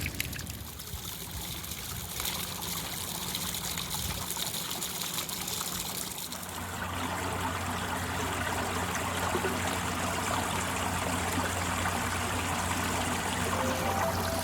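Water running in a small stream, a steady trickling and splashing that gets louder about six and a half seconds in.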